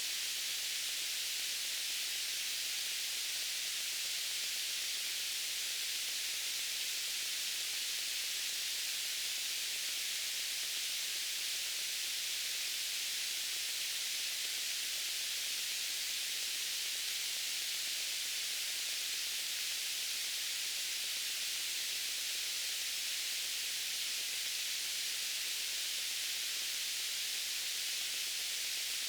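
Steady white-noise hiss, weighted toward the high range, unchanging throughout.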